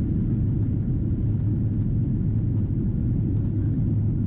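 Inside the cabin of a Boeing 777-200ER climbing after takeoff: the steady low roar of the engines and rushing air, with a constant low hum underneath.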